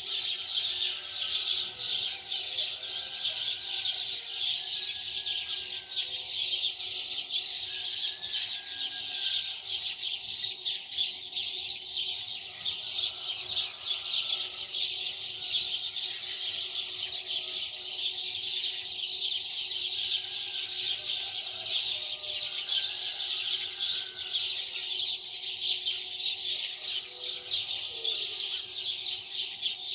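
Many small birds chirping continuously in a dense, busy chorus, with scattered lower calls among the chirps.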